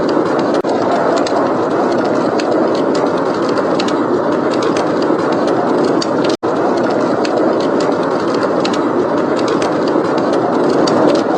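Howling blizzard wind blowing steadily, with a wood fire crackling in many small, sharp pops over it. The sound cuts out for a split second about six seconds in.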